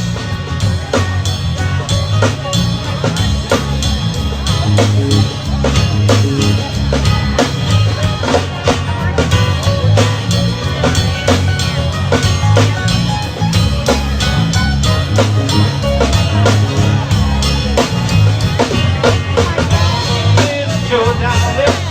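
Band music with no vocals: a drum kit keeps a steady beat over a heavy bass line.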